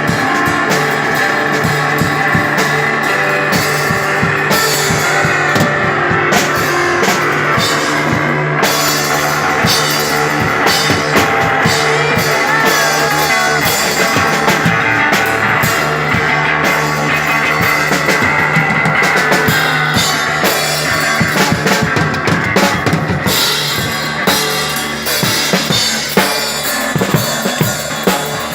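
Rock band playing an instrumental passage: sustained electric guitar over a steady drum kit with bass drum and snare. In the last few seconds the guitar drops back and the drums come forward as separate sharp hits.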